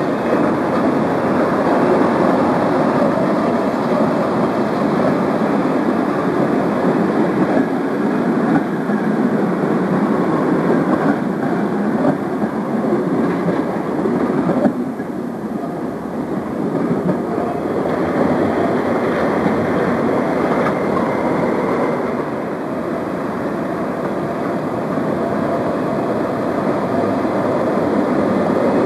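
Passenger train hauled by an electric locomotive passing close by, a steady rumble of wheels on the rails from the coaches rolling past.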